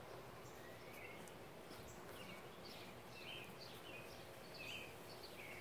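Faint birdsong: short high chirps repeated about twice a second, with one rising note near the start, over a steady background hush.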